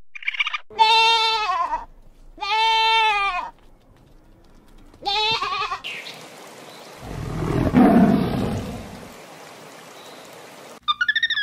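Goats bleating, three short wavering calls a second or two apart. They are followed, about seven seconds in, by a loud, low, rough rumble that fades over about two seconds.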